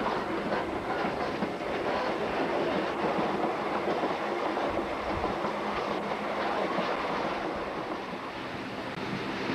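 Passenger train running steadily along the track: a continuous rumble of wheels on the rails with a clattering of the wheels over the rail joints.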